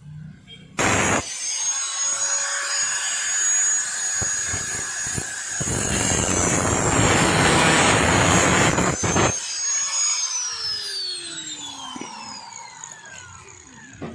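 A power tool with a high-pitched motor whine switches on abruptly and runs. A louder, noisier stretch comes in the middle, then it is switched off and its whine falls steadily as the motor winds down.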